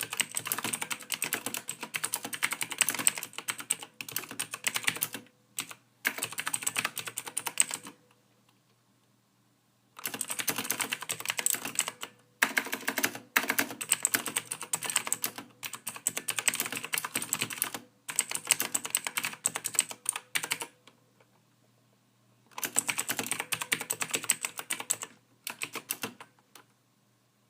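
Soft typing on a computer keyboard: quick runs of keystrokes lasting a few seconds each, broken by short pauses, the longest of about two seconds.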